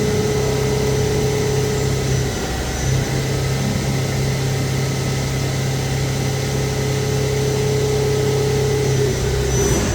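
CNC lathe running through a turning cycle: a steady machine hum with a held higher whine. The low hum breaks off briefly about two and a half seconds in, then resumes.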